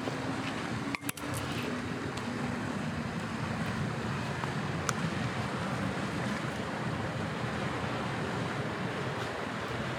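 Steady wind noise on the microphone over a low rumble, with a faint steady hum during the first few seconds and a brief dip about a second in.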